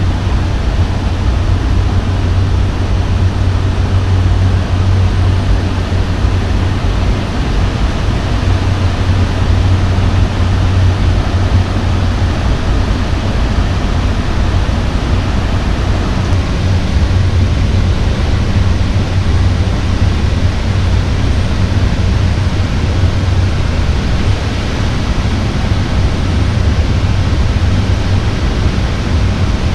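Steady drone inside the cockpit of a Cessna 208 Caravan, from its single PT6A turboprop engine and propeller: a loud, even low hum under a broad rushing noise, with no change in pitch.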